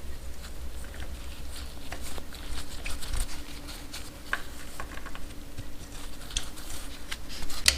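Scattered light clicks and taps of hand tools working on the engine-mount bolts of a motorcycle, irregular and fairly faint.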